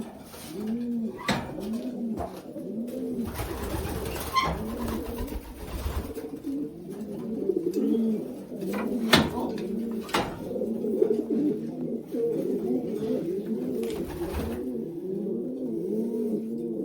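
Many racing pigeons cooing together in a loft, a continuous overlapping chorus of coos, broken by a few sharp knocks.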